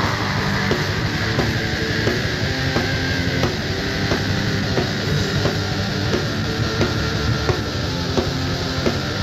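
Instrumental passage of a heavy rock song: electric guitars and a drum kit keeping a steady beat, over which one long high note is held and slides slowly down in pitch.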